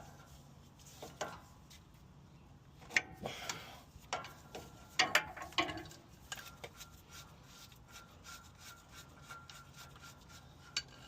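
A wrench working a nut loose on a truck's steering linkage: scattered metallic clicks and rubbing, with a few sharper knocks about three and five seconds in.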